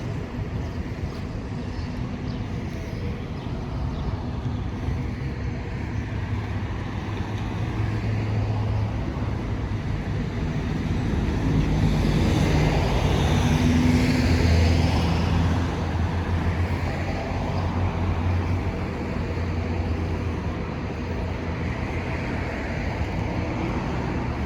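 Road traffic: steady engine hum of motor vehicles, swelling to its loudest about halfway through as a vehicle passes close.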